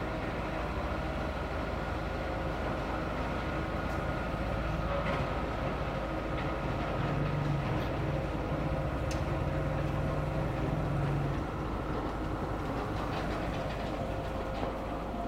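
Excavator's diesel engine running steadily with a low rumble, working harder for a few seconds around the middle before settling back.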